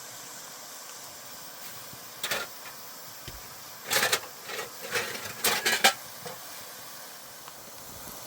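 Pots and dishes clinking and knocking together several times in the middle, over a steady hiss.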